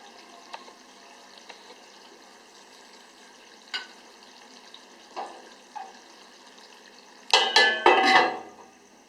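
A metal spoon stirring chicken in a karahi, with a few light taps and scrapes, then a loud burst of clanging against the pan about seven seconds in. Under it runs a faint sizzle of the chicken frying in ghee.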